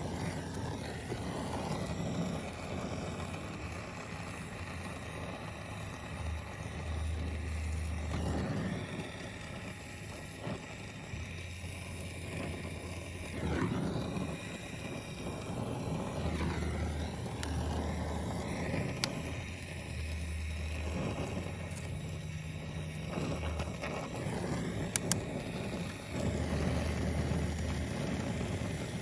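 Gas brazing torch flame burning with a steady hiss while copper air-conditioner refrigerant pipe is brazed, with a low rumble that comes and goes and a few light clicks.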